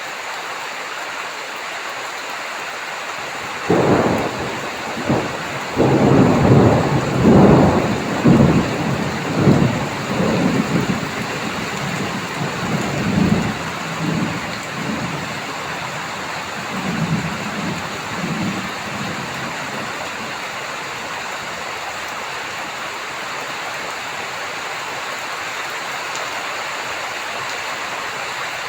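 Heavy rain falling steadily with a thunderclap about four seconds in, its rumble rolling on in uneven surges for some fifteen seconds before dying away under the rain.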